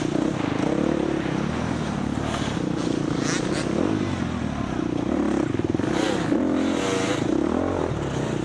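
Dirt bike engine revving up and down as it is ridden hard over an off-road course, the pitch repeatedly rising and falling, with clatter and wind noise on the onboard camera.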